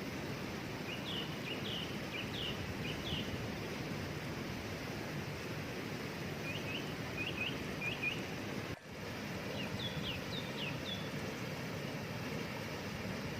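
Steady rush of a waterfall, with a small bird chirping three short bursts of quick, rising notes over it. The water noise drops out for an instant about two-thirds of the way through.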